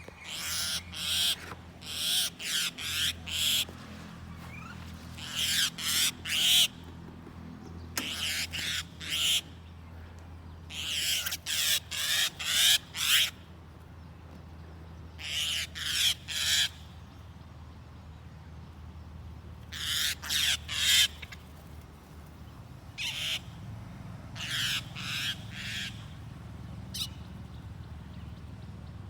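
A bird giving loud, harsh calls in quick bouts of three to five, with pauses of a second or more between bouts, as it fights a snake.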